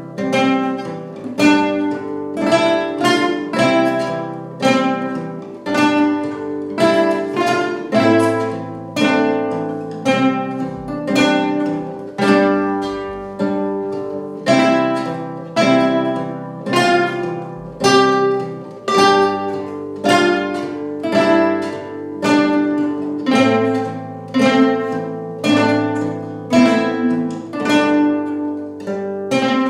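Guitar playing a tune alone: plucked notes and chords that ring and die away, with an accented chord on a steady pulse of about one every second and a quarter.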